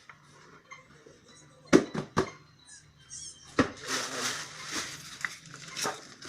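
Several sharp clicks and knocks of small hard parts being handled, about two seconds in, then rustling and crinkling of packaging.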